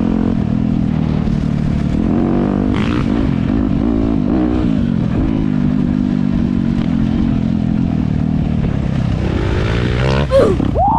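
Dirt bike engine running on the trail, its pitch rising and falling as the throttle is worked. A short sharp clatter comes about ten seconds in.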